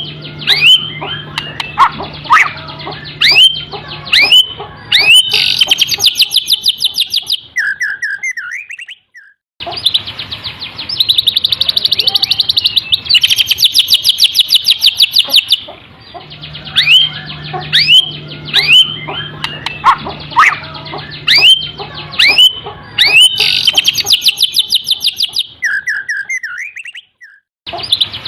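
White-rumped shama singing canary-style song: runs of sharp upward-sweeping whistles, then fast rolling trills, broken by two short pauses. The same run of phrases comes round twice.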